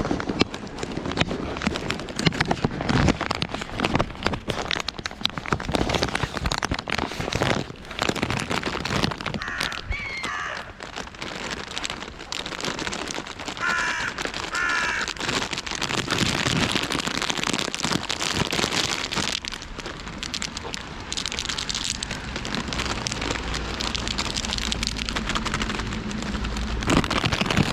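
Steady rain pattering close by, with crows cawing: a call about ten seconds in and a quick run of caws around fourteen to fifteen seconds in.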